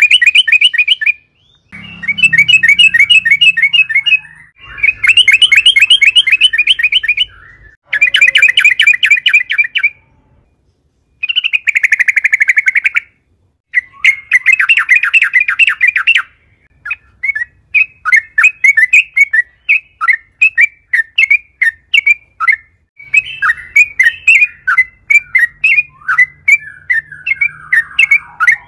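Yellow-vented bulbul (trucukan) singing loudly in bouts of rapid chattering notes, each run about two to three seconds long with short pauses between. In the second half the song breaks into separate quick chirps.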